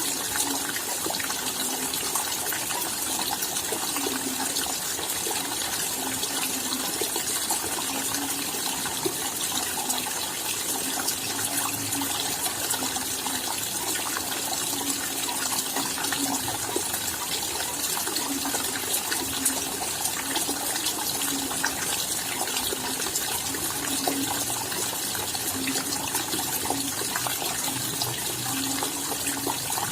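Steady rain falling, a dense even patter of many small drops with no pauses, and a faint low hum underneath that comes and goes.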